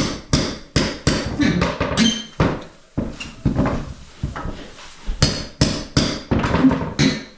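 Hammer blows struck repeatedly in a steady rhythm, about three a second, with a short pause partway through, during home repair work.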